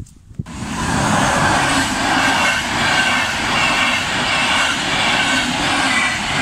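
Deutsche Bahn Intercity coaches passing close by at speed: a loud, steady rush of wheels on rails and air that starts suddenly about half a second in.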